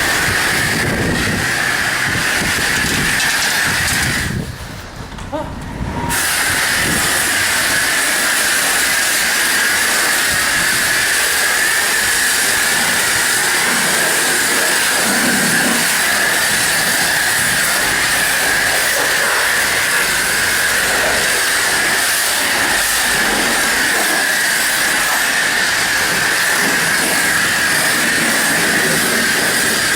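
Self-serve car wash high-pressure spray wand jetting water onto a car in a steady loud hiss. It cuts out briefly about four and a half seconds in and starts again about a second and a half later.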